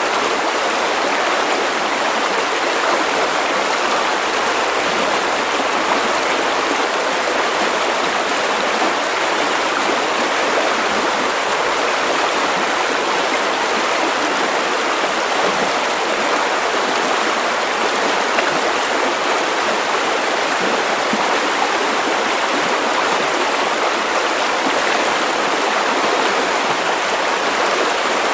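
River water running over stones, a steady rushing and babbling with no change throughout.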